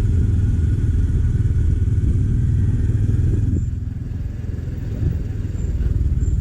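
Motorcycle running on the road with a steady low rumble. It eases off about four seconds in, then picks up again.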